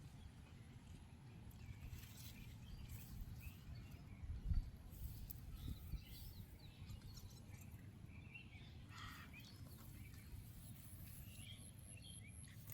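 Faint outdoor ambience: a low wind-like rumble with scattered small bird chirps, and a single thump about four and a half seconds in.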